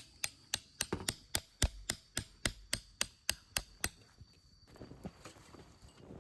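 A hammer striking rapidly and evenly, about three and a half blows a second, stopping about four seconds in, then softer rustling.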